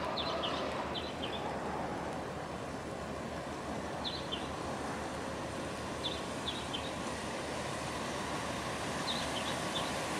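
Steady outdoor rushing noise, with a small bird chirping in four short bursts of a few quick notes each.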